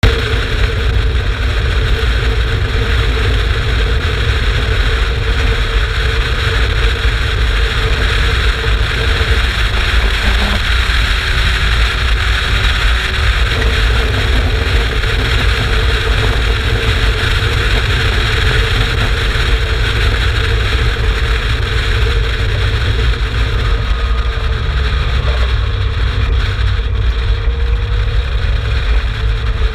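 Turbocharged Mazda MX-5 1.8-litre BP four-cylinder engine of an Exocet kit car running at a steady pace, with a heavy low rumble underneath and no big rises or falls in revs.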